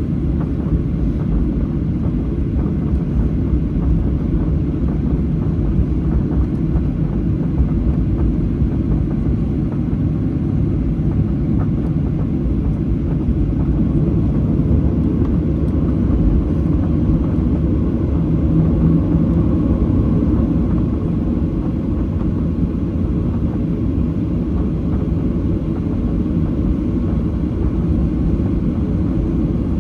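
Steady low rumble of a Boeing 737-800 with its CFM56 engines running, heard from inside the passenger cabin, swelling slightly about halfway through.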